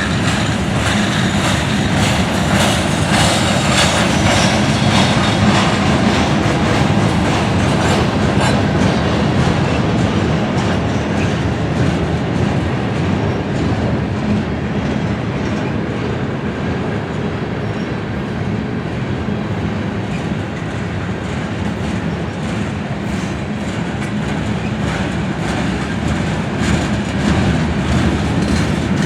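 Train cars rolling steadily past, wheels clicking and clacking over the rail joints with a continuous rumble.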